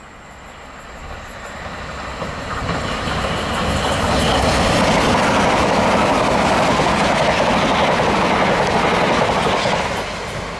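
Electric multiple-unit passenger train running through the station at speed without stopping. The noise of wheels on rails builds as it approaches, stays loud for several seconds while the carriages pass, then falls away near the end.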